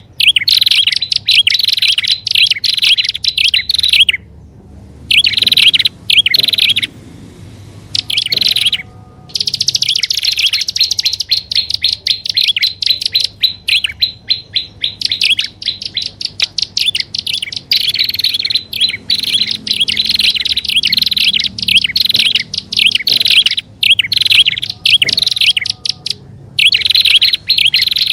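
Prinias calling loudly in fast strings of sharp repeated chirps. The track is edited, with a few abrupt cuts where it drops out briefly.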